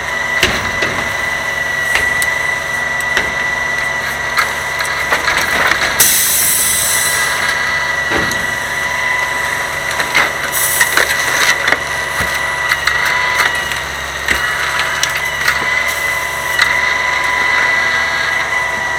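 Grapple truck's claw crushing and lifting bulk trash, with repeated wood cracking, splintering and knocking over the truck's running engine and a steady high whine. Two short hisses come about six seconds in and again about ten and a half seconds in.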